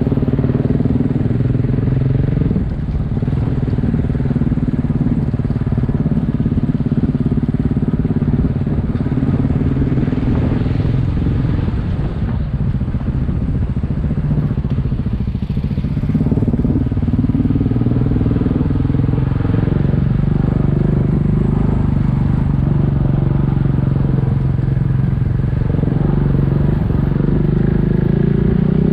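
Single-cylinder adventure motorcycle engine running while riding. Its steady note eases off about two and a half seconds in and picks up strongly again around the middle, over a constant low rumble.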